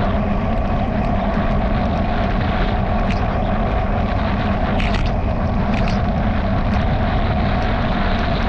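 Steady rushing ride noise from a bicycle on the move, wind on the microphone and tyres on the road, with the bike's camera mount rattling in short clicks now and then.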